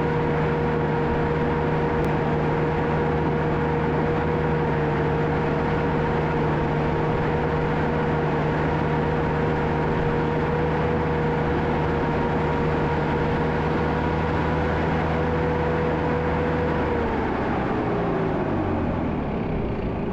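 John Deere 650K crawler dozer's diesel engine running steadily under work with a steady whine over it, then throttling down near the end, its pitch falling.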